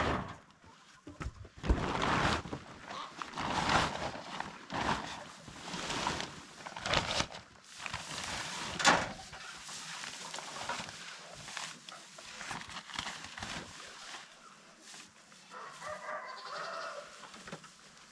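Farm animals calling, a string of separate loud calls in the first half and softer ones after.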